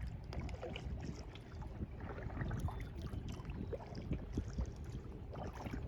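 Kayak paddling on a lake: the paddle dips and water splashes and drips in small irregular patters against the boat, over a low rumble of wind on the microphone.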